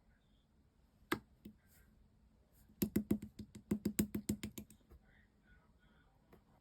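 Yellow pearl slime being pressed and poked by hand, making sharp clicks. There is a single click about a second in, then a quick run of clicks, about nine a second, for nearly two seconds.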